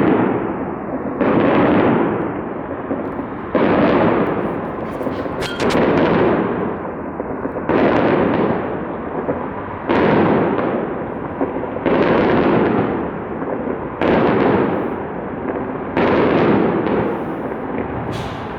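Fireworks display: aerial shells bursting with heavy booms about every two seconds, each boom trailing off in a long rumble before the next one.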